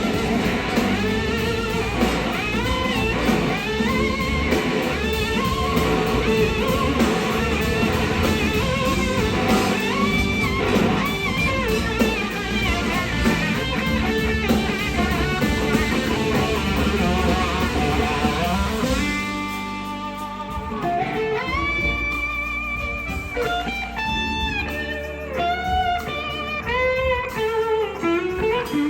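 Live electric slide guitar soloing over a full blues-rock band with bass and drum kit. About two-thirds of the way through, the band drops out and the slide guitar carries on alone, with notes gliding up and down between pitches.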